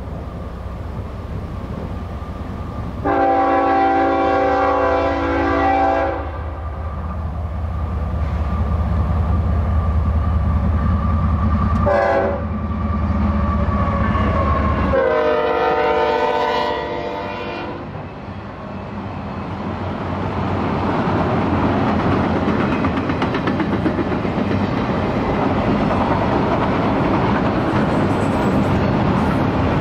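Diesel freight locomotive rumbling past while sounding its multi-note air horn: a long blast, a short one, then another long one. After that comes the steady roll of the autorack freight cars going by, wheels clattering on the rails.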